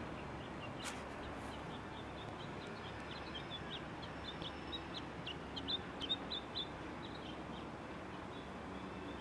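A small bird chirping in a quick run of short, high notes that peter out after several seconds, over steady low background noise. A single sharp click sounds about a second in.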